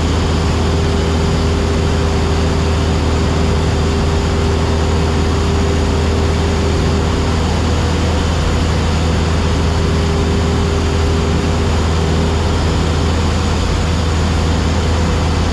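Cessna 172SP's four-cylinder Lycoming engine and propeller running steadily at cruise power, a constant drone heard from inside the cabin.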